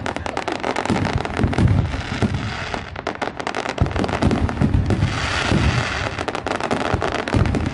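Aerial firework shells bursting in rapid succession, a dense unbroken barrage of booms overlaid with many sharp crackling pops.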